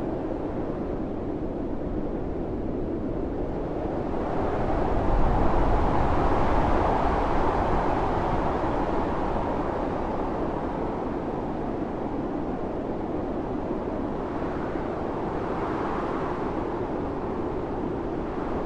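Howling storm wind blowing in gusts. It swells into a louder surge about five seconds in, eases off, and rises again near the end.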